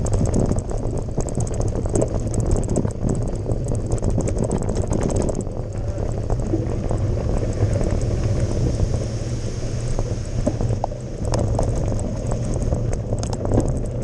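Carbon mountain bike ridden fast over a gravel forest road: wind buffeting the microphone, tyre rumble and the bike rattling with many small clicks and knocks, a little calmer through the middle.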